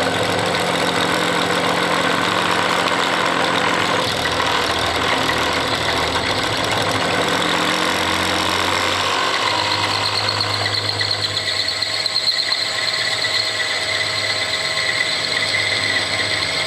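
Milling machine spindle running while a drill bores a pin hole in steel. About ten seconds in a high, wavering squeal rises over the motor sound, the chatter a drill makes when the speed is not right.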